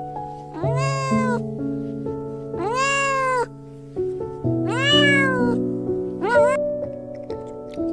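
An animal calling four times, each call rising then falling in pitch, the last one short, over background music.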